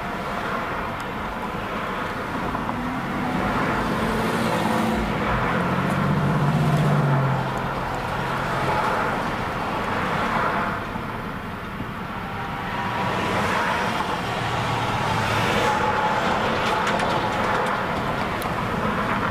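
Road traffic: cars passing one after another, each swelling and fading, with one vehicle's engine hum standing out near the middle.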